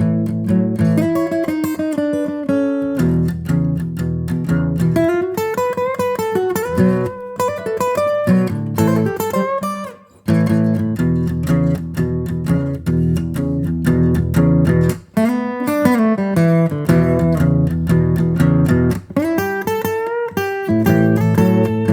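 Music played on acoustic guitar, a steady run of plucked notes over low bass notes, with a short break about ten seconds in.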